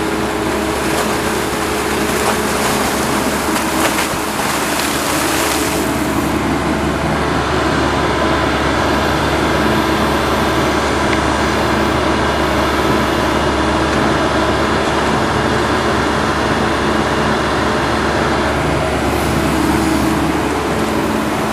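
Heavy earthmoving equipment backfilling a trench, its diesel engine running steadily, with a few knocks in the first several seconds.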